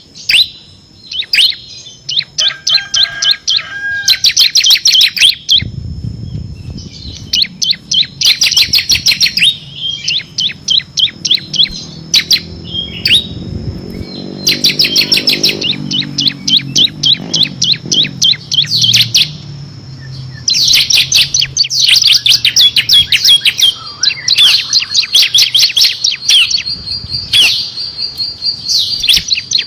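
Bar-winged prinia (ciblek) singing in fast, high-pitched rattling trills, the machine-gun-like 'ngebren' song, delivered in repeated bursts with short pauses between them.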